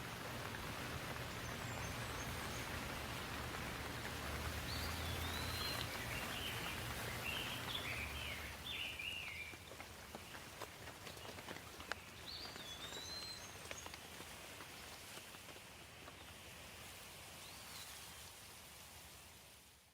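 Steady rain falling, with a songbird singing short whistled phrases over it and a fuller burst of song about four to nine seconds in.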